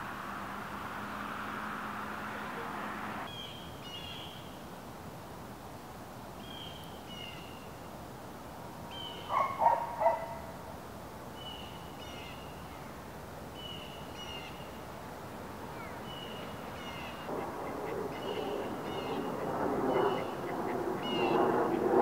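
Birds calling outdoors: a small bird repeats a short, high two-note call every second or two. Another bird gives two loud, lower calls about halfway through, over a background hum that grows louder near the end.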